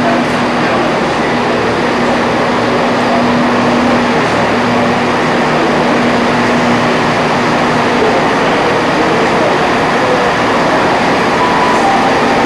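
Steady running noise of a diesel multiple unit heard from inside the carriage. A low steady hum stops about two-thirds of the way through.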